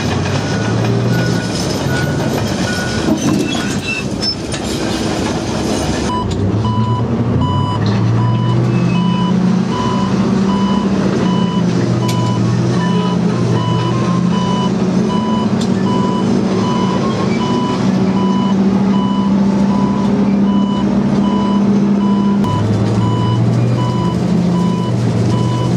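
Engine of a Type 94 waterfront mine-laying vehicle running steadily under a repeated electronic warning beep. The beep drops to a lower pitch about six seconds in, and the engine note shifts again near the end.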